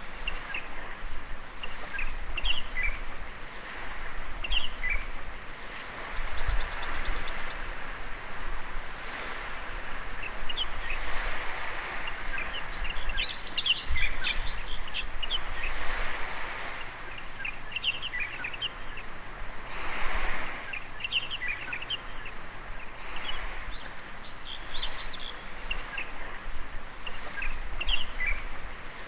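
Birds chirping and calling over and over, with one quick high trill partway through, over the soft wash of small waves on a beach that swells and fades every few seconds.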